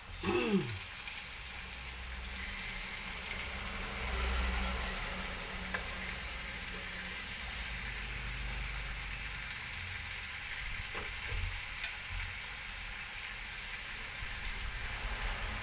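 Pork, liver and onions sizzling steadily as they fry in a pan, with a few light clicks near the end. A brief falling whine sounds right at the start.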